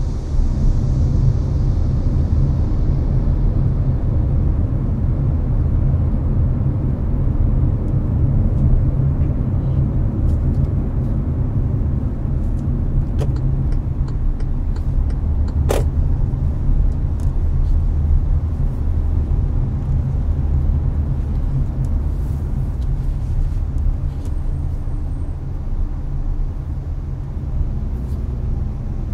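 Hyundai Avante cruising on the expressway, heard from inside the car: a steady low road-and-engine rumble, with the air conditioner blowing. A single sharp click sounds about halfway through.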